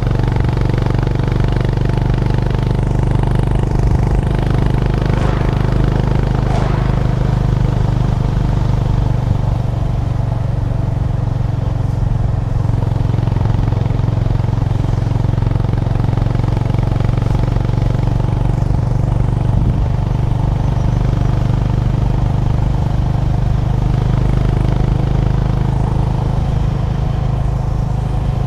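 Honda GB350's single-cylinder engine running steadily while the motorcycle cruises, a deep even engine note with little change in revs.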